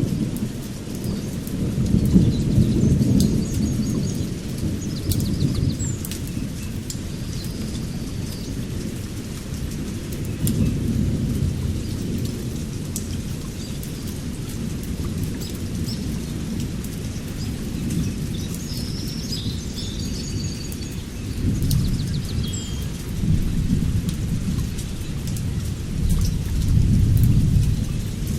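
Thunderstorm: low rolling thunder rumbling and swelling several times over steady rain. A few short bird chirps sound faintly above it.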